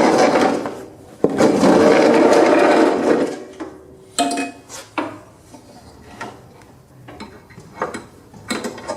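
Metal lawn-tractor mower deck parts being worked into place by hand: two long scraping rubs in the first three seconds, then scattered metal clanks and clicks.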